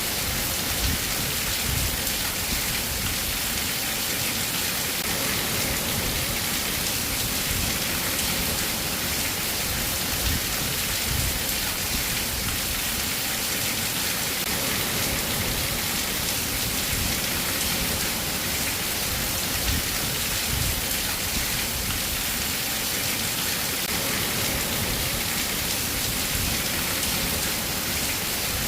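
Steady rainfall, a continuous even hiss, with an irregular low rumble underneath.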